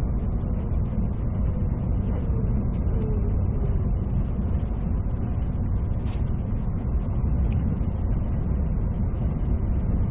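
Cabin running noise of a JR East E657 series electric limited-express train under way: a steady low rumble of wheels on rail, with a faint falling tone in the first few seconds and a couple of brief light clicks.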